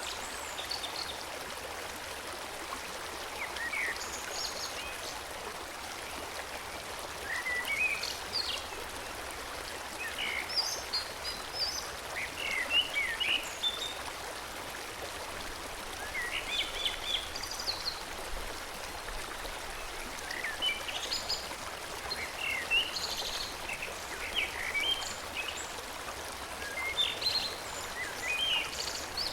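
Forest stream running steadily, with songbirds chirping and trilling in short phrases every second or two over the water.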